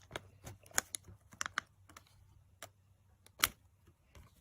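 Scattered light clicks and crackles of fan-folded paper being handled and spread open by hand, with one sharper click about three and a half seconds in.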